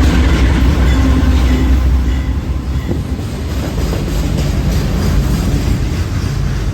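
Freight train rolling past at close range. A heavy low rumble eases after about two seconds, then the freight cars' wheels keep up a steady clatter on the rails.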